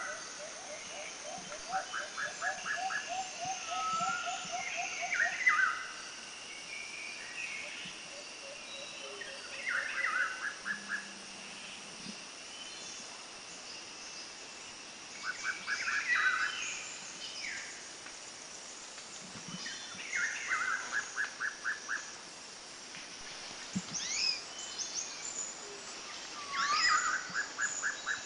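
Birds singing in a natural soundscape. One bird repeats a short phrase of quick, rapidly repeated notes every few seconds, and a lower trill runs through the first several seconds.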